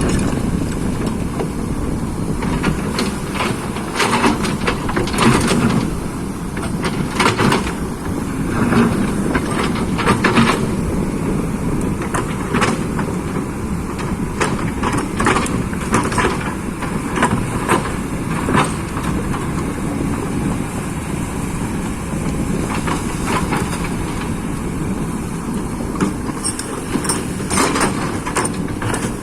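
Excavator's diesel engine running steadily under load, with repeated metallic clanks and knocks from the machine working.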